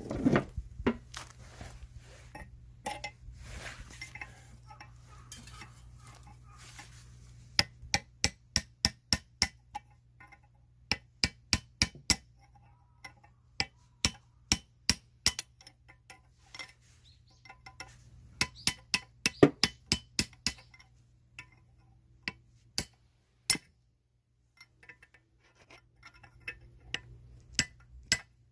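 Sharp metallic clinks and taps of tools on metal parts, in runs of quick, evenly spaced strikes with single clinks between them.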